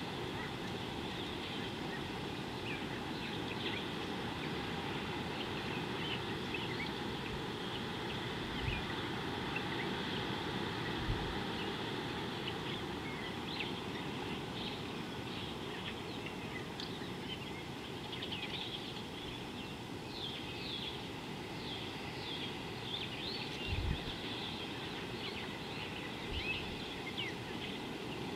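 Wild birds chirping in many short, scattered calls over a steady low background rumble, with a few brief low thumps.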